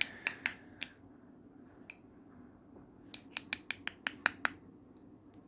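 Light clicks and clinks of a feeding spoon against a small bowl of mashed banana: a few in the first second, one near two seconds in, then a quick run of about eight taps.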